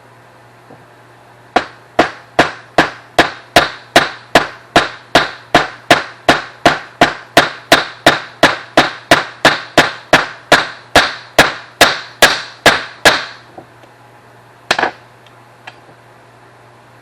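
Small hammer tapping a brass bushing into the worn aluminum throttle-shaft bore of a carburetor base plate: a long run of sharp, even metal taps, about two and a half a second for some twelve seconds, then a single sharp double knock.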